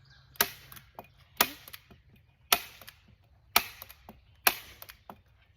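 Manual heavy-duty staple gun (Arrow T50 type) firing staples, one sharp snap about every second, five in all, with small clicks of handling between.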